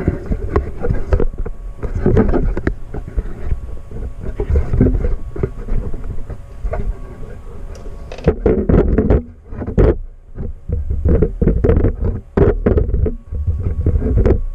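Loud, irregular low rumbling with many knocks and rustles close to the microphone, like an action camera being handled and moved around.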